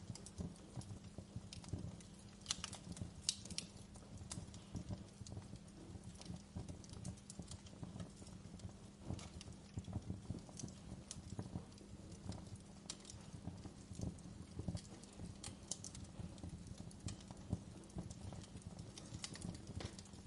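Wood fire in a fireplace crackling and popping: a steady stream of small crackles with a sharper pop every few seconds, over a faint low hum.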